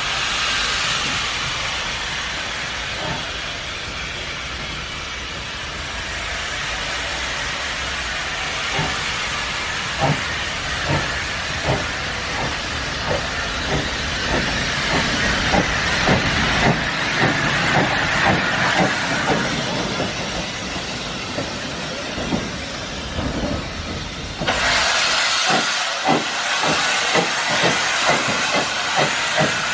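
Steam locomotive hissing steadily while its train's wheels click over the rail joints. The clicks come faster toward the end as the train gathers speed.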